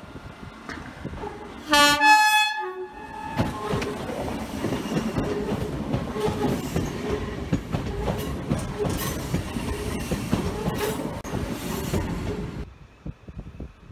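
Train horn sounding two tones in quick succession, loud and brief. Then the train runs past with a steady rumble and clattering wheels, which cuts off suddenly near the end.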